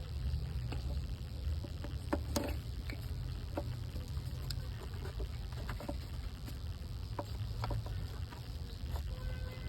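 Scattered, irregular light clicks and knocks of hand tools and parts while ignition coils and spark plugs are being swapped, over a steady low rumble.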